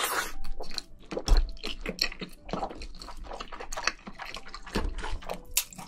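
Close-miked chewing of a thick slab of canned luncheon meat: an uneven run of many short mouth clicks and smacks, with a low thump about a second in.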